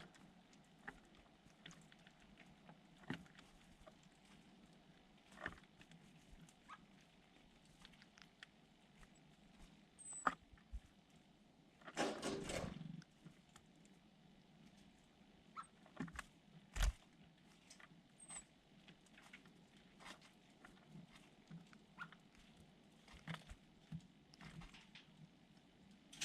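Small birds close by: scattered light taps and scuffs, a brief rustling flutter about twelve seconds in, and a few faint, thin, high chirps.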